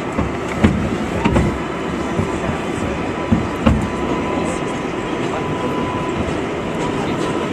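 New York City subway 7 train running along the track: a steady rumble with a few sharp wheel knocks over rail joints in the first four seconds and a faint steady tone above it.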